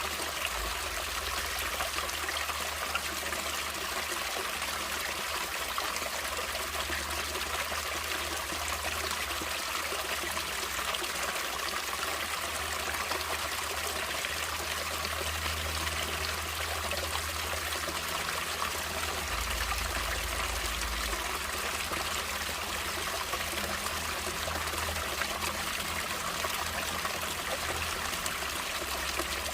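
Natural running water flowing and trickling steadily, an even rushing splash with no breaks.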